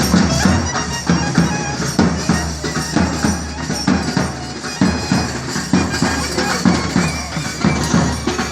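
South Indian temple ensemble playing: a nadaswaram's reedy, bagpipe-like held notes over quick, steady thavil drum strokes.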